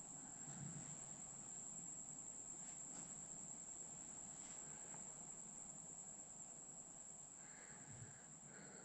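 Near silence: faint room tone under a steady, thin, high-pitched whine, with only a few soft faint stirrings.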